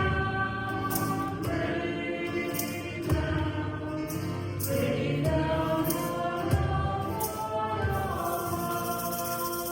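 Church choir singing a hymn with instrumental accompaniment, several voices holding chords together, and light percussion strokes keeping the beat.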